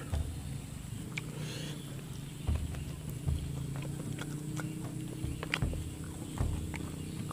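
A person chewing a mouthful of rice and fried bird meat, with irregular small mouth clicks and smacks.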